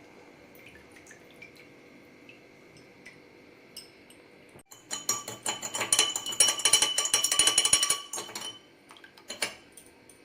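A spoon stirring in a glass of water, clinking rapidly against the glass for about four seconds around the middle, then a few single clinks. The stirring dissolves sugar and salt into the lemonade.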